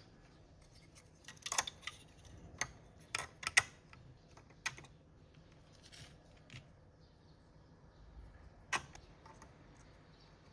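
Irregular sharp clicks and taps of small hard objects being handled, about a dozen in all, most of them bunched a second or so in and another strong one later on.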